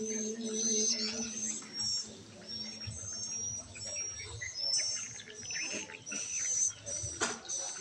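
Small birds chirping over and over in short, high notes, with a sharp click near the end.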